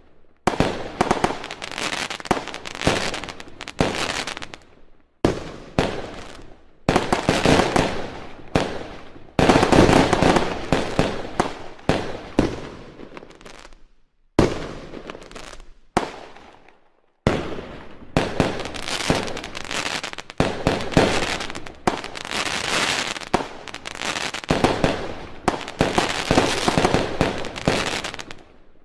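Fireworks going off in rapid volleys of bangs and crackling pops, the volleys broken off abruptly by brief silences several times, loudest about ten seconds in.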